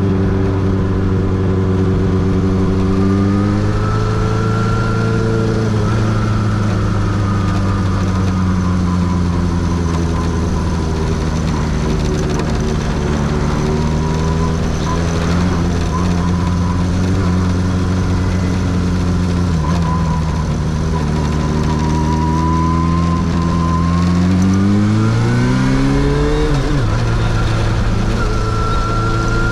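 Kawasaki Zephyr 750's air-cooled inline-four engine and exhaust pulling at a steady cruise, with a gentle rise in revs a few seconds in. Near the end the revs climb steeply under acceleration, then drop back suddenly at an upshift.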